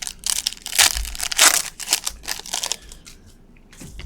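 Crinkling and tearing of a trading-card pack wrapper as it is ripped open and handled, in a run of close crackles that are loudest in the first half and tail off after about three seconds.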